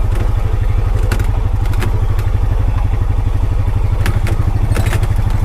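Honda Pioneer 520 side-by-side's single-cylinder engine running steadily while driving in four-wheel drive, with scattered clicks and knocks over the top.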